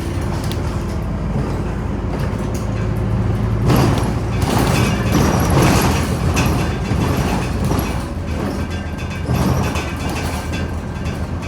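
Scania OmniCity city bus heard from inside while driving, its diesel engine humming steadily under road and cabin noise. The rattle and road noise swell louder for a few seconds about four seconds in.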